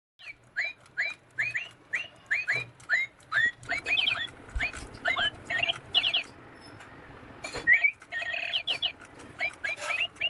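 Battery-operated toy bird chirping: a steady string of short upward-sweeping chirps, roughly two a second, with a few clusters of quicker chirps.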